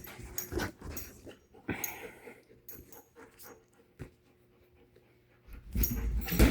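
Puppy panting and snuffling in short noisy puffs, then a quiet stretch; about a second before the end a louder, low, muffled rumble sets in.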